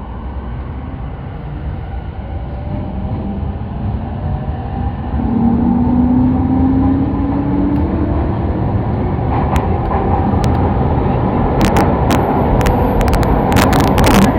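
Sotetsu Line train running, heard from inside the car as it picks up speed: a low rumble that grows steadily louder under a faint rising motor whine, with sharp clacks and knocks from the wheels and car body coming thicker from about nine seconds in.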